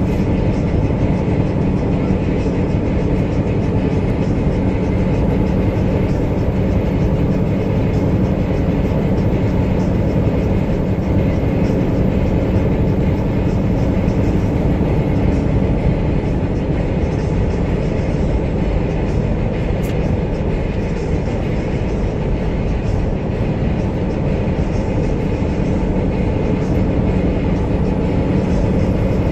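Steady, continuous rumble of a passing train, heard from inside a truck cab.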